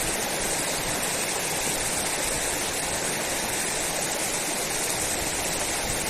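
Steady rushing of river water, an even, unbroken hiss.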